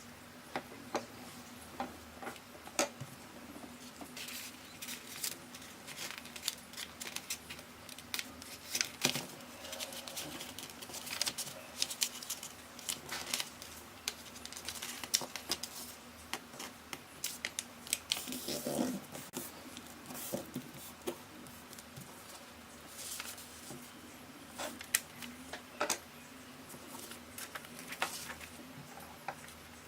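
A sheet of origami paper being handled, folded and creased by hand: irregular crisp rustles and crackles. A faint steady hum runs beneath.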